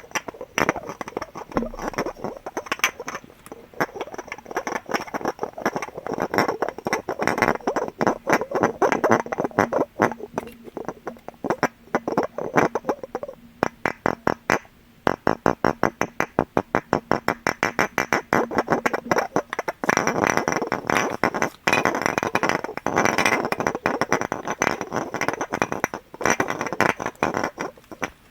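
Fast tapping on glass objects, in quick runs of many taps a second with a few short pauses; the taps leave a bright ringing. A faint steady low tone runs under the first two-thirds.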